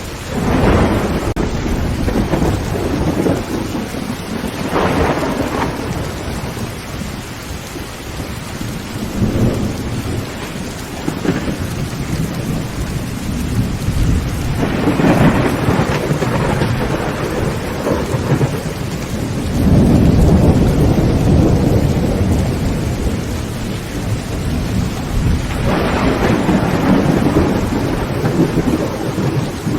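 Heavy rain beating on a tin tent roof under continuous thunder. The thunder rolls in repeated low swells every few seconds, the loudest about two-thirds of the way through.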